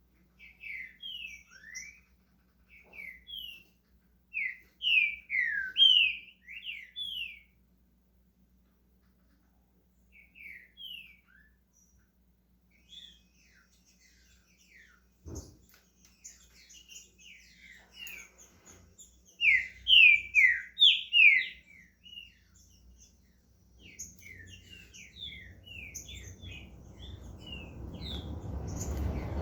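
Green-winged saltator (trinca-ferro) singing in short bursts of quick, down-slurred whistled notes, with pauses between phrases. A single knock comes about halfway, and a low rushing noise builds in the last few seconds.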